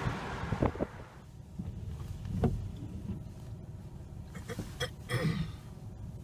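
Low road rumble of a moving car heard from inside, with a few scattered clicks and knocks. A louder rush of wind fades out about a second in.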